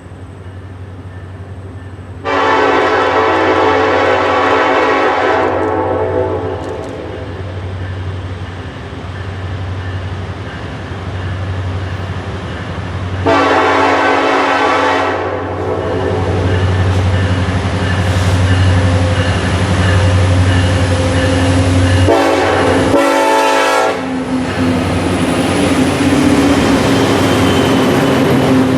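A train's multi-chime air horn sounds three times: two long blasts and a shorter one later on. Under it runs the steady rumble of a diesel locomotive engine, and toward the end there is the noise of the train passing with its wheels clattering on the rails.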